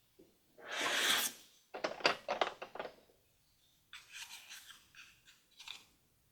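Hands opening a small plastic toy surprise package: a short rustle, then a run of sharp clicks, then a cluster of crisp crackles of wrapping.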